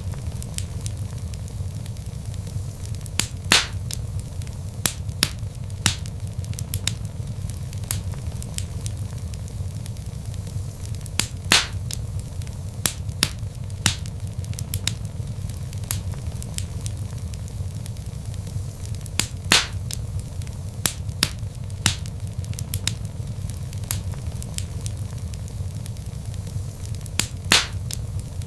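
Log fire crackling in a fireplace: irregular sharp pops and snaps over a steady low rumble of the burning wood.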